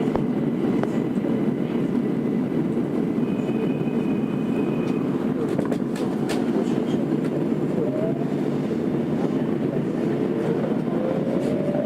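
Tokyo Metro 02 series subway train heard from inside the car: steady running rumble with a few sharp wheel clicks. Near the end the IGBT inverter's motor whine rises in pitch as the train picks up speed.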